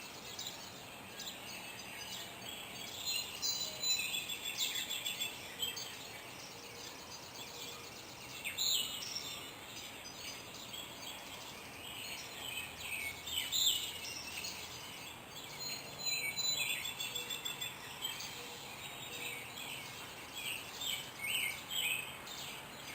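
Several songbirds singing and chirping at once, a dense chorus of short chirps and trills over faint steady background noise.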